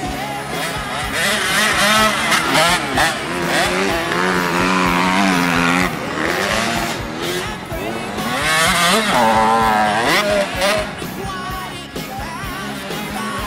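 85 cc two-stroke motocross bikes racing, their engines revving up and down in pitch as the riders work the throttle, loudest twice as they pass.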